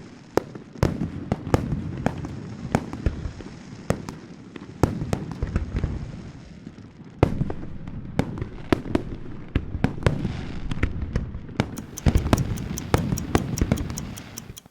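Fireworks going off: a steady run of sharp bangs and crackles over a low rumble, turning into a dense rapid crackling in the last few seconds.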